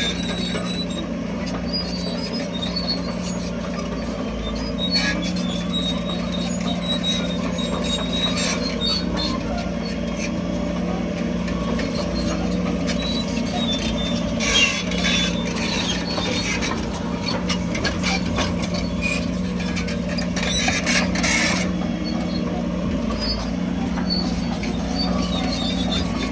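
Crawler bulldozer's diesel engine running steadily under load, with scattered high-pitched squeaks and squeals from its steel track undercarriage. Two louder bouts of rushing noise come about halfway through and again near three quarters in.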